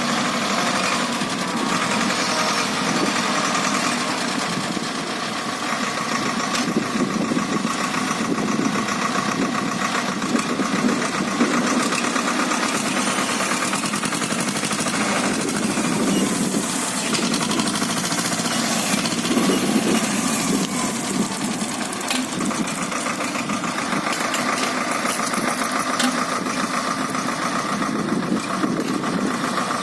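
Swaraj 724 tractor's diesel engine running steadily, with no large change in speed or load.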